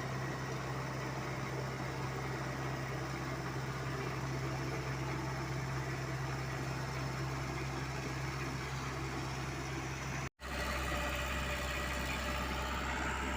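Komatsu PC75UU mini excavator's diesel engine running steadily. About ten seconds in the sound cuts out for a moment, and after it the engine hum sits at a lower note.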